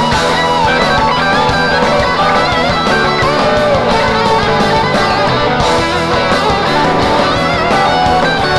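Live rock band playing loud: an electric guitar lead with bent, wavering notes over drums and bass.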